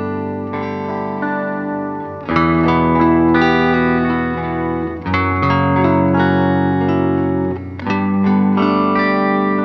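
Instrumental background music led by a guitar, with held chords that change every two to three seconds.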